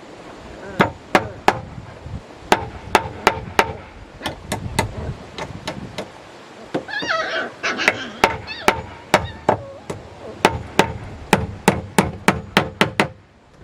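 Repeated sharp strikes on wood, in quick runs of three to five blows at about three a second, with short pauses between runs. This is typical of hand tools working timber in building.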